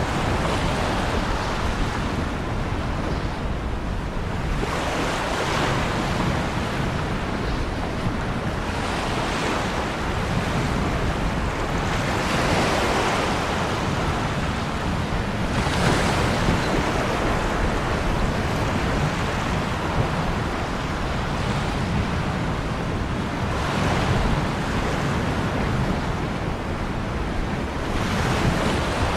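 Ocean waves breaking and washing onto a shore, a steady rush of surf that swells with a new wave every few seconds.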